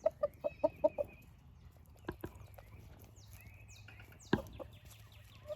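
Backyard buff Orpington chickens clucking: a quick run of short clucks in the first second, then scattered softer clucks. A sharp tap about four seconds in, with a few high falling chirps around it.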